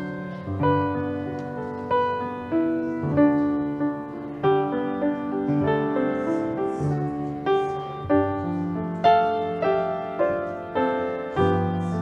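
Piano playing a slow, gentle piece: notes and chords struck every half second or so, each left to ring and fade.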